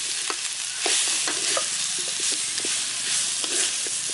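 Crocodile meat sizzling steadily as it is stir-fried in hot oil, with a utensil clicking and scraping against the pan every so often.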